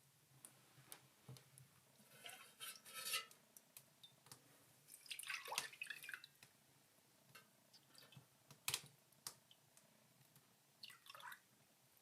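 Faint, scattered clinks, taps and brief splashy water sounds of small kitchen handling, over a low steady hum.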